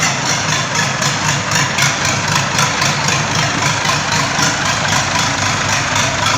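Freshly assembled engine running steadily during its running-in (break-in), with a fast, even ticking over the engine noise.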